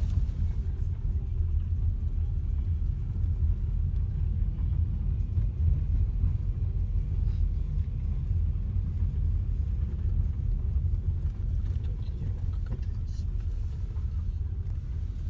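Steady low vehicle rumble with no distinct engine pitch, like traffic or a car driving.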